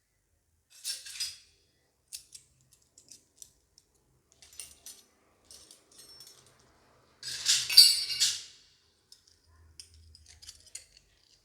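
Small toy kitchen pieces being handled, giving scattered light clicks and clinks, with one louder, longer burst of rustling about eight seconds in.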